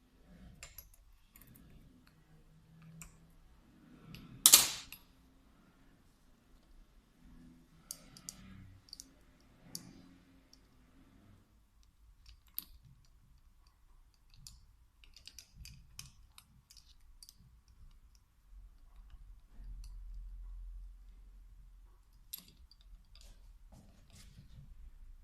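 Scattered light clicks and taps of small metal parts and hand tools being handled while a VE diesel injection pump is taken apart on the bench. One louder, short noisy burst comes about four and a half seconds in.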